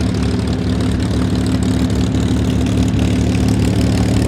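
P-51D Mustang's Packard Merlin V-12 engine running steadily at low power, a low, even engine note that grows slightly louder.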